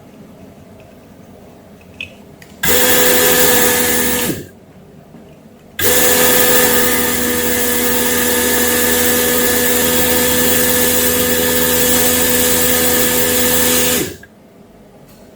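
An electric motor with a fan runs twice, with a steady hum and a strong rushing of air. The first run is short, about two seconds; the second lasts about eight seconds. Each starts and stops abruptly, and its pitch sags as it stops.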